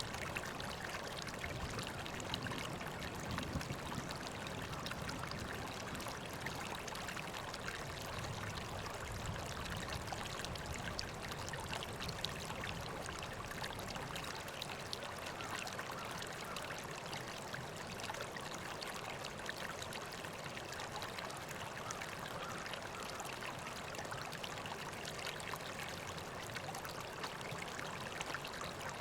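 River water flowing and trickling in a steady, even rush.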